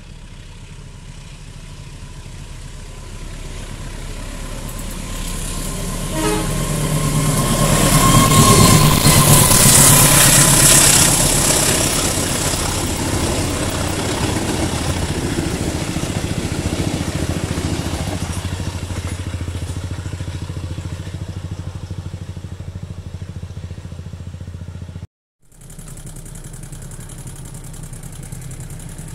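A CC203 diesel-electric locomotive hauling a passenger train approaches and passes, sounding a single held horn note as it draws level, then its coaches roll past on the rails, slowly fading. About 25 seconds in the sound cuts out briefly and a lower, steady rumble of a distant locomotive follows.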